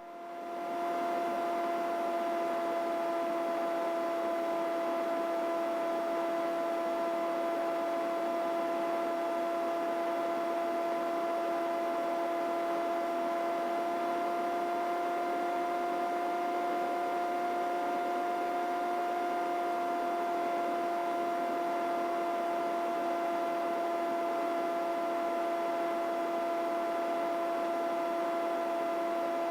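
Helicopter in steady cruise flight heard through the cockpit intercom: a constant hum with two strong held tones, unchanging throughout, its deepest sounds cut off.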